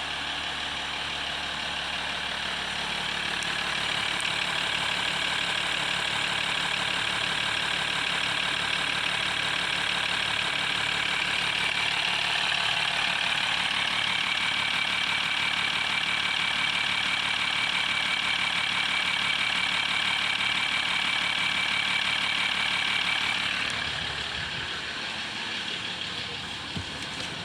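A 3.0-litre V6 turbo diesel engine running steadily at idle with a diesel clatter. A steady high whine joins in about halfway through, and the sound eases off a little near the end.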